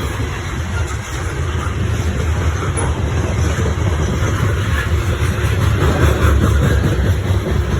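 CSX coal train rolling past close by, a loud, steady noise of steel wheels on the rails with no break.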